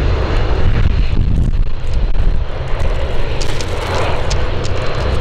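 Airliner engine noise across an airport apron, mixed with strong wind buffeting the microphone as a heavy, choppy low rumble.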